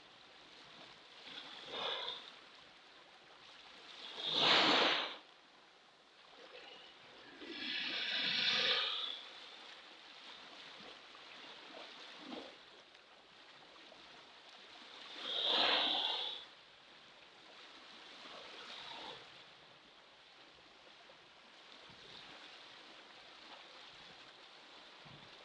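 Pacific Ocean waves washing in, with short splashing surges every few seconds over a low, steady wash of water.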